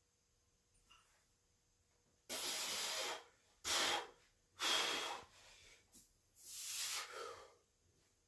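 A man breathing hard, four loud, rasping breaths of just under a second each, from the exertion of heavy bench pressing.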